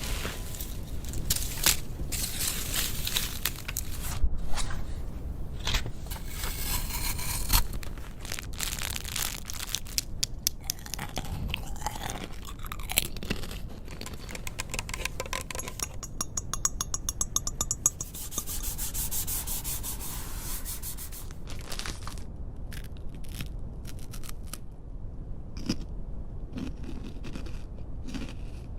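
Close-miked ASMR trigger sounds: rubbing, scraping and crunching textures one after another, with a quick, even run of ticks about two-thirds of the way through.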